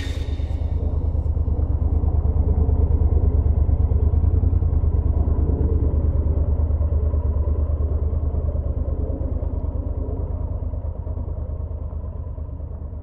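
Motorcycle engine running at low speed as the bike rolls slowly, a steady low throb of rapid firing pulses. It grows gradually quieter over the second half.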